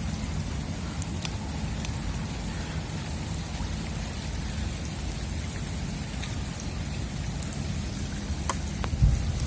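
Steady heavy rain falling, with scattered sharp drop hits over a constant low rumble.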